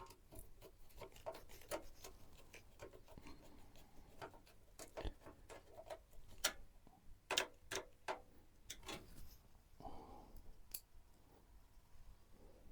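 Irregular small clicks and taps of computer parts being handled during assembly, with a few sharper clicks near the middle and a short rustle near the end.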